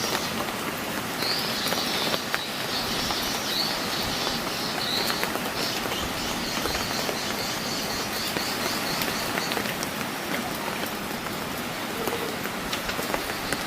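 Heavy rain pouring down steadily, a dense even hiss. A high, fluttering chirr sounds over it for most of the first ten seconds, then fades.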